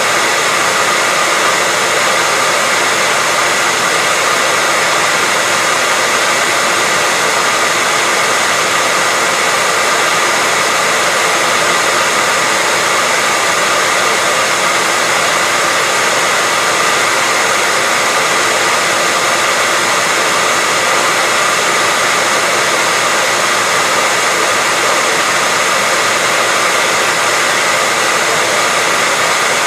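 Hair dryer running continuously: a steady rush of airflow with a faint fan whine and no change in speed.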